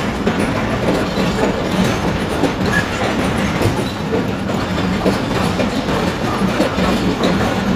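Pakistan Railways passenger coaches rolling past on the rails, a steady rumble with scattered clicks from the wheels.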